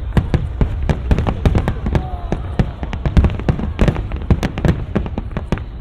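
Aerial fireworks display: a rapid, dense barrage of cracks and bangs, several a second, over a steady low rumble, thinning out near the end.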